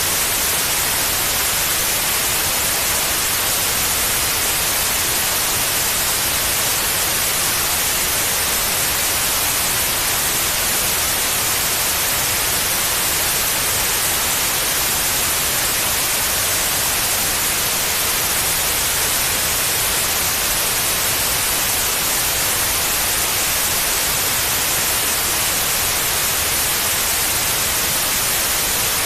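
Steady white noise: an even, unchanging hiss, brightest in the high end, played as a sleep aid for babies.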